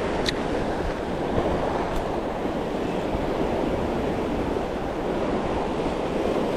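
Surf washing on the shoreline: a steady rushing of water, with faint short clicks near the start and about two seconds in.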